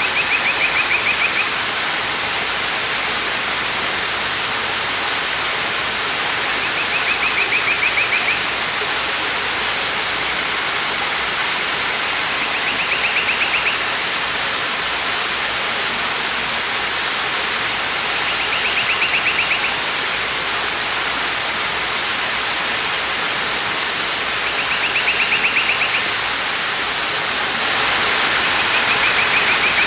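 Waterfall: a steady rush of falling water. A short, high, rapid trill repeats about every six seconds over it, and the rush grows a little louder near the end.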